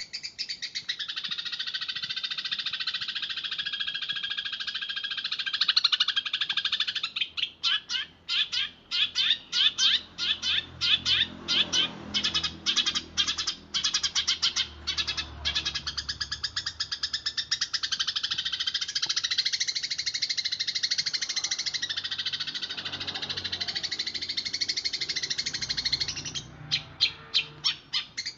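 Eurasian tree sparrow chattering in fast, dense rolls, with rapid chirps run together into continuous trills. From about a quarter of the way in to about halfway, the rolls break into separate quick chirps. They break up the same way briefly near the end.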